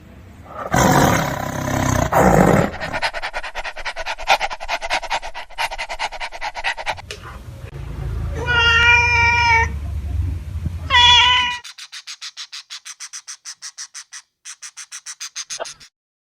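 Animal sounds: a loud rough stretch near the start, then two drawn-out pitched calls in the middle, the first nearly two seconds long and the second short, followed by a run of soft quick pulses, about six a second, near the end.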